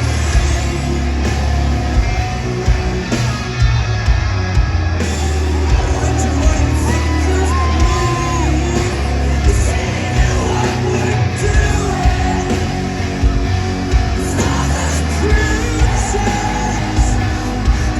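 Live rock band playing loudly, with a singer and heavy bass, and the crowd yelling along. The sound echoes through a large hall and is picked up by a phone in the audience.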